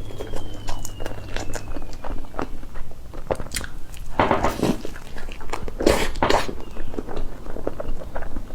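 Close-miked eating of cake: soft biting and chewing with wet mouth clicks, with louder bites about four and six seconds in.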